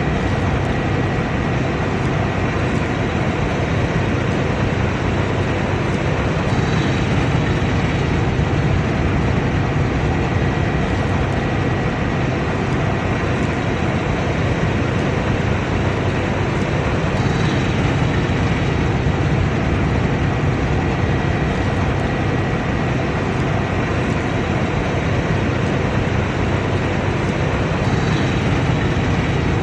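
Combine harvester running steadily while harvesting: a constant diesel engine drone under the even rush of the threshing machinery, with a thin steady high whine.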